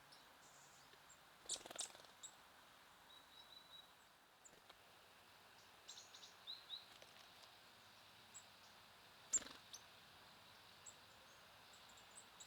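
Faint, scattered short high chirps and call notes of small songbirds, with a few sharp clicks about one and a half seconds in and again near nine seconds, the later one the loudest, over a faint outdoor hiss.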